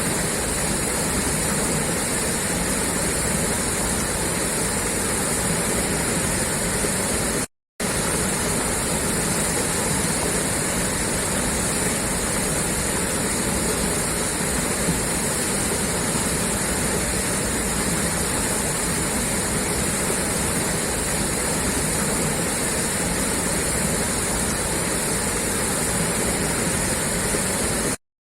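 Water gushing steadily from a pipe outlet, a constant rushing noise, cut by two brief dropouts to silence: one about seven and a half seconds in and one near the end.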